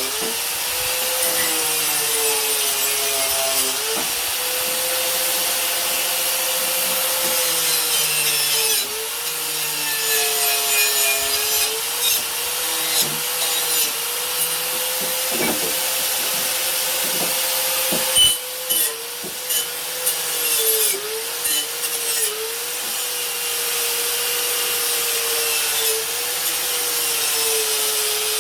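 Electric power tool scrubbing rust off a steel meat cleaver's blade: a steady motor hum that keeps dipping briefly in pitch as the tool is pressed onto the metal, over a rough scouring hiss. A sharp knock comes about eighteen seconds in.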